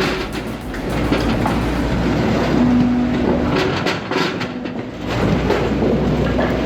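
Firewood processor running: steady machine noise with repeated knocks and clatter of wood.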